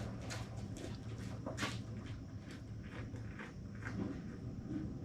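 Footsteps walking on a hard surface, a series of uneven taps, over a steady low hum.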